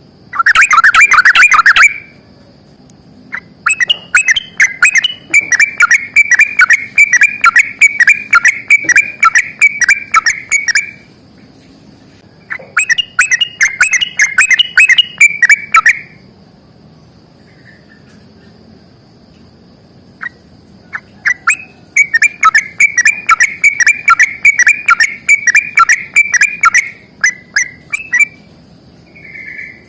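Yellow-vented bulbul (trucukan) giving long, rapid chattering song bouts, the fast rattling 'ropel' delivery, in four loud bursts separated by short pauses.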